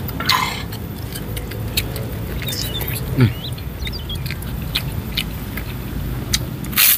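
A person chewing chicken curry with rice, with many small wet mouth clicks and smacks. A steady low hum runs underneath, and there is a short loud noisy burst near the end.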